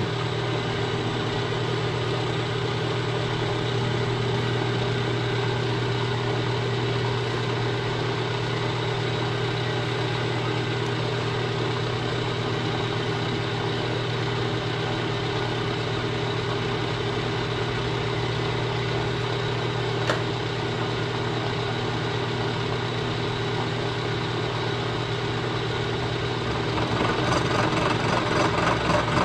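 Machine tool running steadily with an even hum while boring the cylinder bore in a hit-and-miss engine frame. Near the end a fast, regular pulsing joins the hum.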